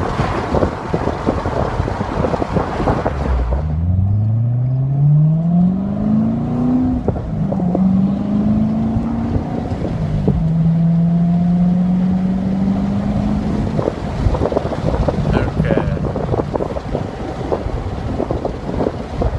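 Chevrolet Corvette C7 Stingray's 6.2-litre V8 exhaust accelerating through the gears with the top down. The engine note rises, drops at two upshifts, and climbs again each time, over heavy wind noise on the microphone.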